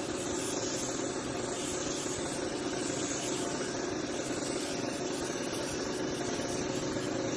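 A steady mechanical hum with a constant hiss of air, unchanging throughout.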